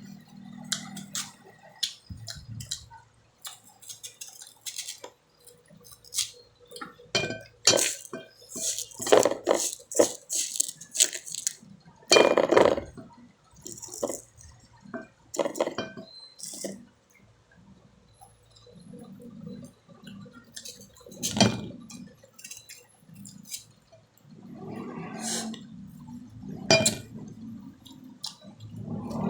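Eating mango close to the microphone: irregular bites, chewing and wet mouth sounds, with occasional clinks of dishes or utensils.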